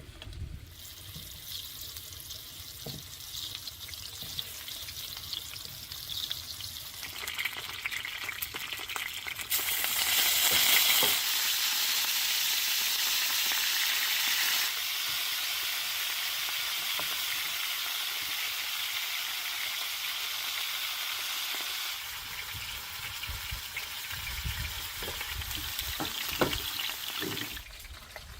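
Food frying in hot oil in a pan, a steady sizzle that gets louder about a third of the way in and eases off near the end, with a few light knocks.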